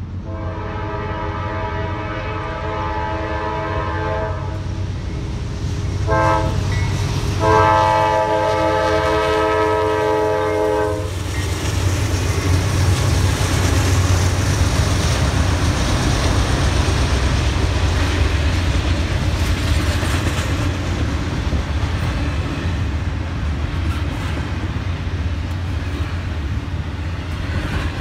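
Norfolk Southern GE C44-9W diesel locomotives sounding their air horn for the grade crossing: a long blast, then short blasts and a final long blast that ends about eleven seconds in. After that the locomotives and the intermodal cars roll through the crossing with a steady low rumble and the clatter of wheels on rail.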